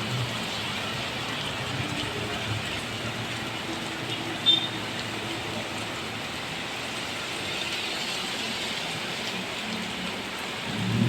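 Steady rain falling and splashing on surfaces, with one short high-pitched chirp about four and a half seconds in.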